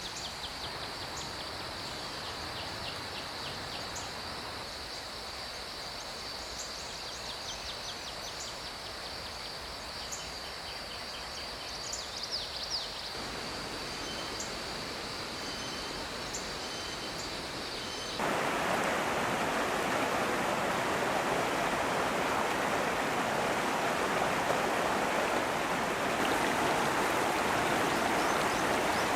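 Mountain stream flowing over rocks, heard as a steady rushing of water. For the first two-thirds the water is softer under a steady high-pitched drone with short high chirps; then an abrupt cut brings a louder, fuller rush of the stream.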